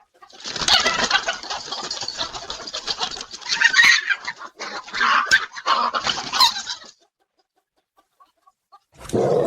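Chickens clucking and squawking for about six and a half seconds, then stopping.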